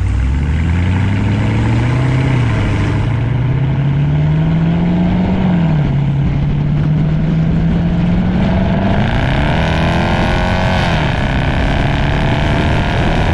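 Truck engine and exhaust accelerating hard, its pitch climbing and dropping back at gear changes about two and five and a half seconds in, then rising and falling again near the end.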